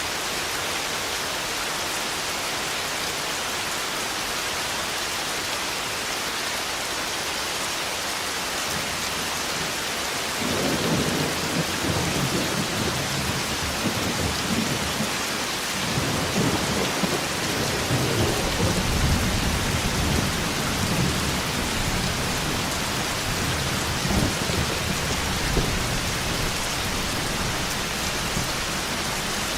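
Thunderstorm: steady heavy rain, with a long roll of thunder that breaks in about a third of the way through and rumbles on in several swells for some fifteen seconds before fading back under the rain.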